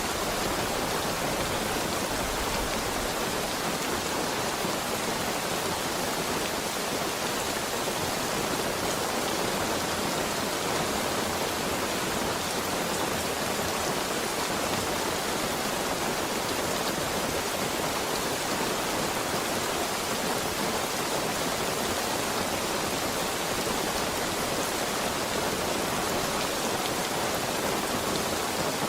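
Heavy rain falling steadily, an even rushing hiss with no thunder or other events.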